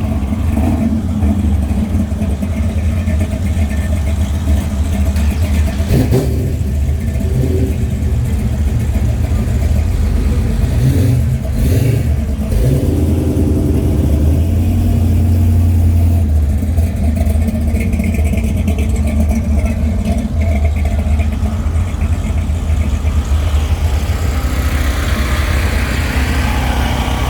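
Car engines running at low speed as cars roll past, a steady low rumble with some revving.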